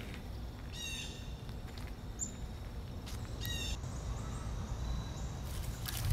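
Two short bursts of bird calls, about a second in and again about three and a half seconds in, over a steady low outdoor rumble.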